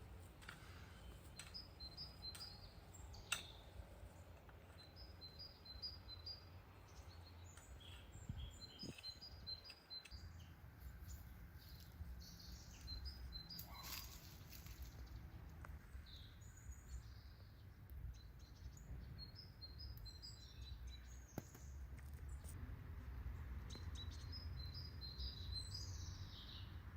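Small birds chirping, short high notes in quick runs of three to five, repeated every few seconds over a faint low rumble, with an occasional single click.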